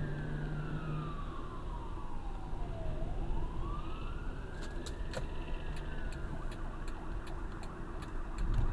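Fire truck siren on a slow wail, its pitch falling for about three seconds, climbing for two, then falling again and fading out, over steady car engine and road rumble. A few sharp clicks come in the second half.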